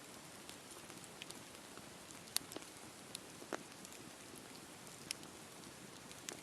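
Wood campfire crackling: sharp pops and snaps at irregular intervals over a low steady rush of burning, the loudest pop about two and a half seconds in.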